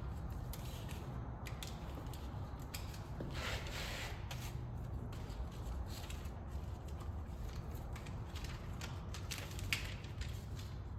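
HVAC duct tape being worked onto a cut-down plastic HVAC duct: scattered crinkles and clicks of tape and plastic handling, with one longer rasp of tape pulled about three and a half seconds in.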